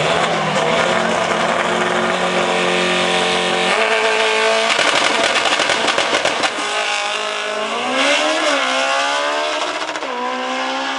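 Honda S2000's four-cylinder engine running at high revs under hard acceleration. It holds a high steady note, drops in pitch about a third of the way in, then climbs again, dipping and climbing once more about three-quarters through, as at gear changes.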